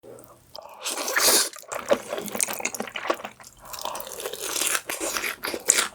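Close-miked ASMR eating sounds: wet, irregular chewing and crunching bites of black bean noodles and fried food.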